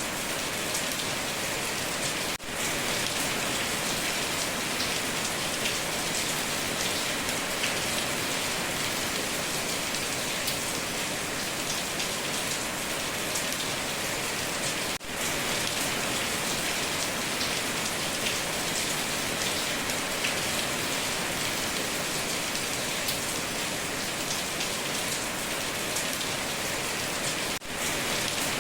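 Heavy rain falling steadily on a tin roof, a dense hiss full of fine drop ticks. The sound dips for a split second three times.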